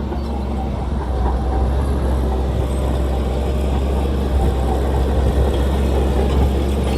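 Heavy diesel engine of earthmoving machinery running steadily, with a deep low hum.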